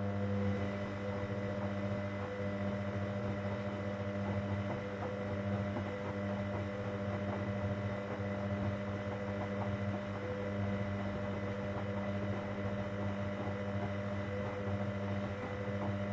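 Hoover Dynamic Next washing machine giving off a steady mains-pitched hum with a faint watery rush behind it, cutting off just after the end.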